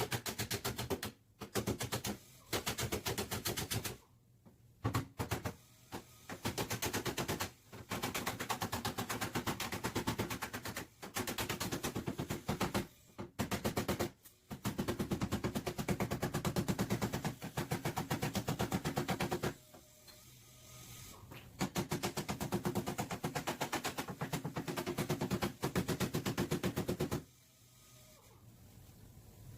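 A pneumatic body-shop tool working sheet metal, firing rapid pulses in on-off bursts of a second to several seconds, with short pauses between trigger pulls; it stops near the end.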